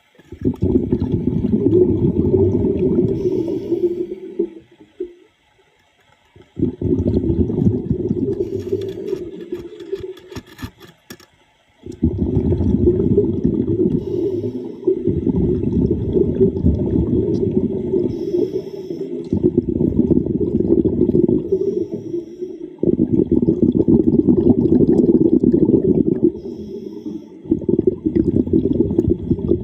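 Water bubbling and rumbling, heard underwater, in long surges of a few seconds each separated by brief lulls.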